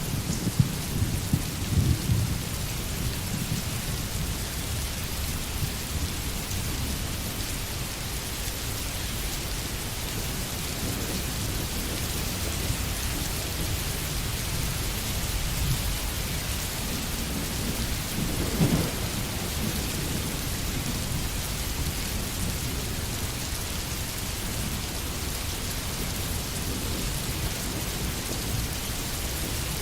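Steady rain falling, a constant even hiss, under low rumbles of distant thunder that are strongest in the first few seconds. A short, louder rumble comes about nineteen seconds in.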